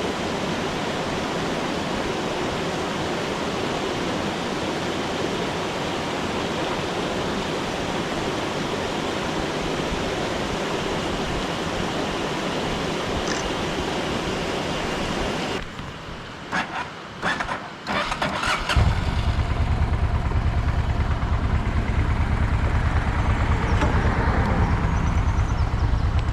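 Mountain stream rushing steadily. About sixteen seconds in it gives way to a few clicks and knocks, then a motorcycle engine starts and keeps running with a steady low drone.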